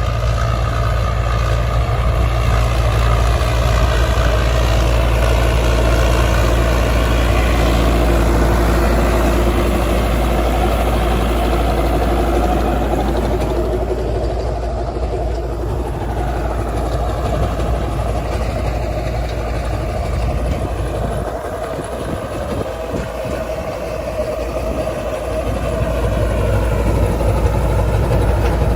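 Farmtrac Powermaxx tractor's diesel engine running steadily under load, driving a 7 ft Pammi superseeder. Its steady low engine note eases somewhat about two-thirds of the way through, then builds again near the end.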